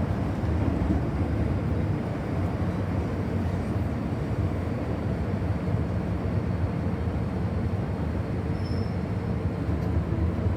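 MTR Tsuen Wan Line M-Train running between stations, heard from inside the carriage: a steady rumble of wheels on rail with a low motor hum, unchanging throughout.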